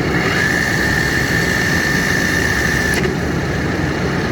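Gear-driven toolroom drill press running, a steady mechanical drone with a high steady whine over it. The whine cuts off with a click about three seconds in.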